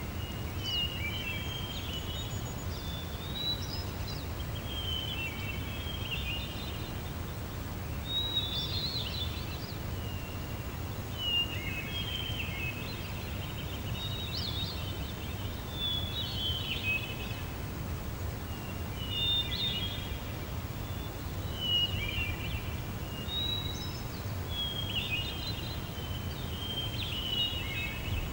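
Songbird singing short chirping phrases, about one every two to three seconds, over a steady low rumble of background noise.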